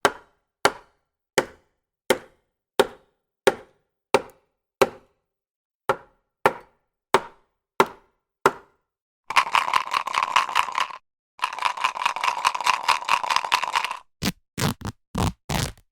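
A sound effect of sharp knocks struck at a steady pace, about one every 0.7 seconds. The knocks are followed by two stretches of dense rattling and then a few quicker knocks near the end.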